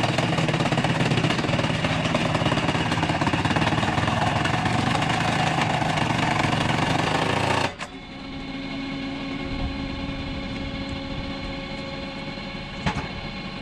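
Hydraulic log splitter's engine and machinery running loud and busy, then an abrupt cut about two-thirds through to a quieter, steady engine hum. One sharp crack comes near the end.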